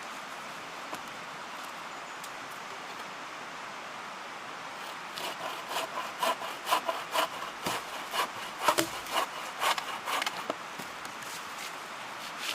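Wood being sawn by hand, probably with a bucksaw: a quick run of short strokes starting about five seconds in and stopping about ten seconds in, over a steady background hiss.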